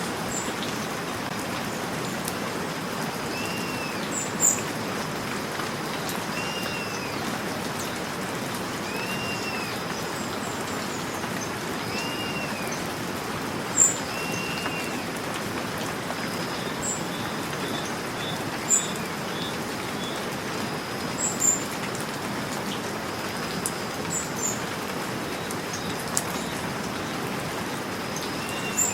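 Steady rain falling, with birds calling through it: a short arched call repeats about every two and a half seconds during the first half, and sharp high chirps come now and then throughout.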